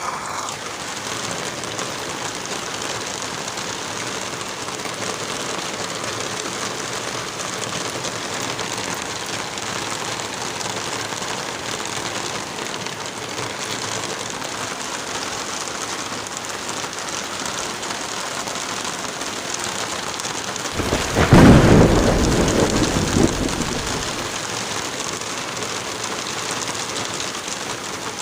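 Steady rain falling, with a thunderclap about three quarters of the way through that rumbles for about three seconds before fading back into the rain.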